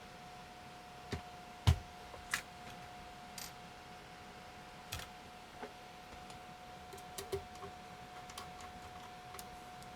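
Irregular clicks and taps on a DVW Microelectronics Husky handheld computer, like its keys being pressed, with one sharper knock nearly two seconds in, over a faint steady whine.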